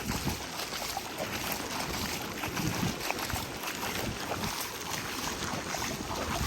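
Footsteps wading through shallow floodwater in boots, the water sloshing and splashing irregularly with each step.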